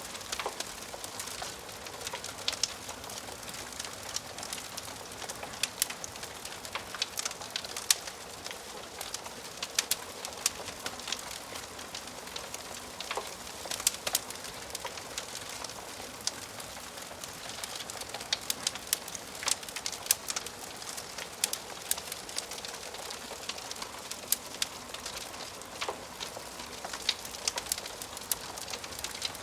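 Wood fire crackling in a fireplace: a steady soft hiss with frequent irregular pops and snaps.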